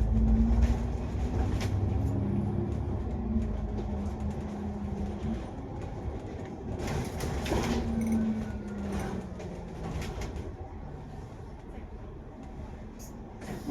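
Double-decker bus heard from inside the cabin: engine and drivetrain running with a low rumble and a droning whine that shifts in pitch, plus road noise. The rumble is loudest in the first couple of seconds and eases off toward the end.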